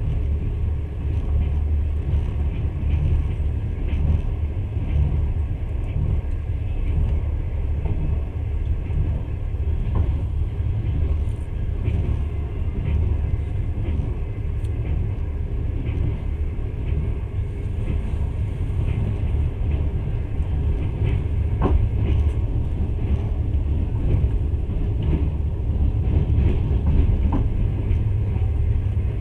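Passenger train carriage running along the track, heard from inside: a steady low rumble, with a couple of faint clicks.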